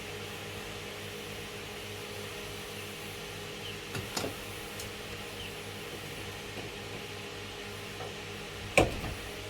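Steady mechanical hum, with a few sharp clicks of a hand tool against metal fittings; the loudest click comes near the end.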